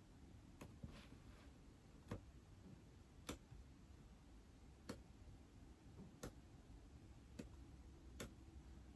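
Quiet, sharp taps on an iPad screen, about seven of them spaced unevenly a second or so apart, with a brief faint scratch about a second in.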